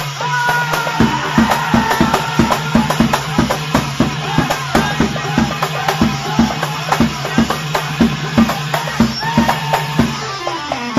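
Live band music in Iraqi popular style: a keyboard melody over a held low note, with a steady percussion beat of about three strokes a second coming in about a second in.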